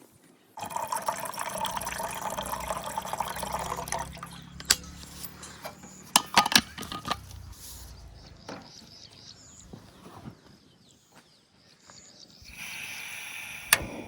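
Water poured into a container, splashing steadily for a few seconds before stopping, followed by several sharp clinks and knocks of utensils or cookware.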